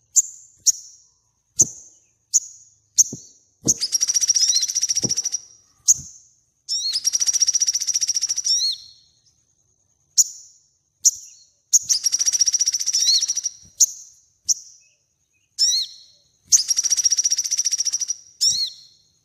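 Sogon songbird singing vigorously: short, high whistled notes, some sliding, alternating with rapid buzzy trills about two seconds long, four trills in all. A few faint knocks are mixed in.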